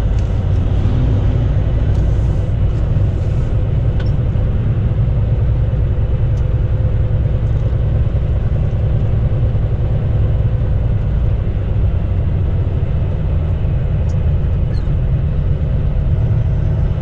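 Steady low engine and road rumble of a semi-truck on the highway, heard from inside the cab. A few faint ticks sit on top.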